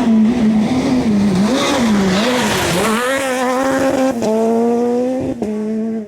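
Suzuki Swift S1600 rally car's 1.6-litre four-cylinder engine at high revs. The revs rise and fall for the first couple of seconds, then hold high and steady, broken briefly twice, about four and five and a half seconds in.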